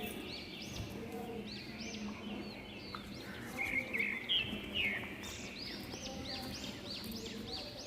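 Budgerigars chirping: a steady stream of quick, high, arching chirps, with a few louder, lower calls bunched together around the middle.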